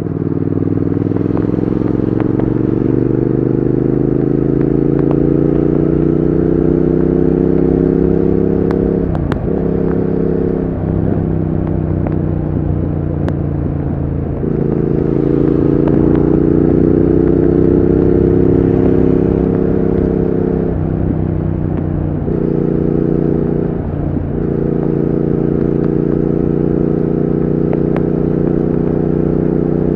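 Triumph Speed Twin 1200's parallel-twin engine and exhaust under way, revs climbing twice as it pulls up through the gears. Each climb ends in short dips at the gear changes, and the engine then settles to a steady cruise for the last few seconds.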